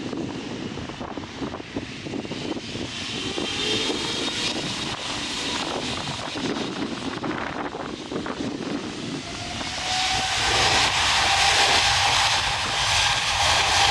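Jet engines of a Boeing 777-300ER (GE90-115B turbofans) running as the airliner approaches, becoming much louder about ten seconds in, with a steady high whine over the rumble. In the first part, gusty noise on the microphone mixes with the engine sound.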